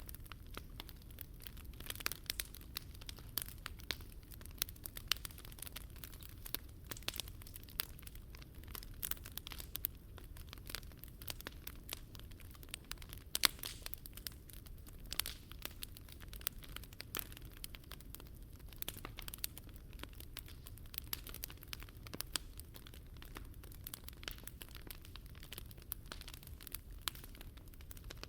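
Wood fire crackling in a Picogrill 398 fire pit: irregular sharp pops and snaps, several a second, over a steady low rumble.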